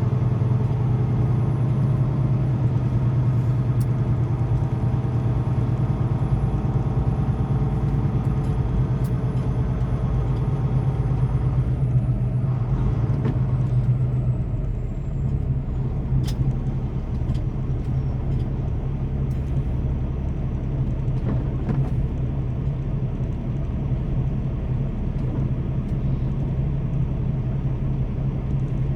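Semi-truck's diesel engine running steadily while the truck drives, a low, even hum that eases off a little about halfway through.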